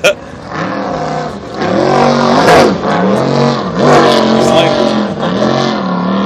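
Custom jet boat's 464 big-block V8, bored .060 over, revving up and down about four times, its pitch rising and falling with each swell.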